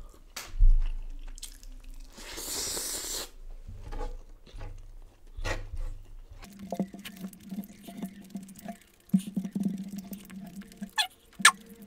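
Close-miked eating: wet chewing and smacking of a mouthful of rice and curry, with squishy clicks as fingers work the saucy rice. In the second half a low, steady hum comes in and out, as if made with the mouth full.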